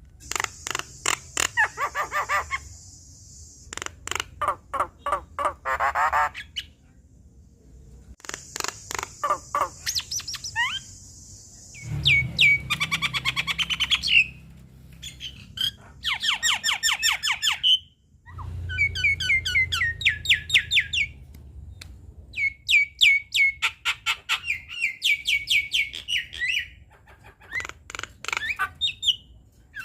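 Javan myna singing in bursts of rapid harsh chattering notes mixed with high whistled phrases and upward-sliding whistles, with short pauses between bursts.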